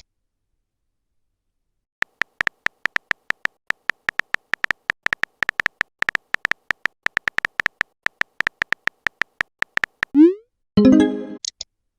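Messaging-app sound effects: a fast run of short typing clicks, about five a second, for some eight seconds. Then a short rising pop for a sent message and a brief chime for an incoming one.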